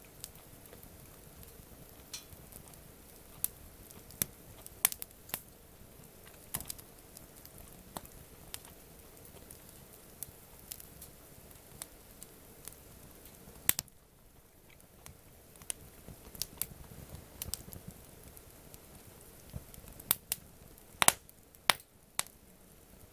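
Wood campfire crackling, with irregular sharp pops scattered through it and a few louder pops near the end.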